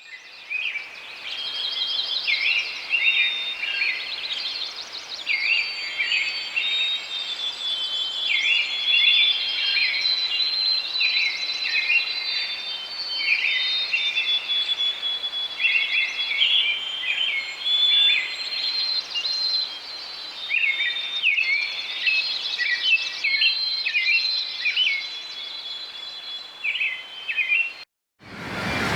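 Small songbirds chirping and twittering: a dense, continuous run of short high chirps and trills that cuts off abruptly near the end.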